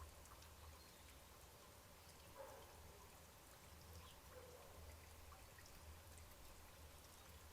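Near silence: a faint low hum with scattered soft ticks, and two faint short sounds about two and a half and four and a half seconds in.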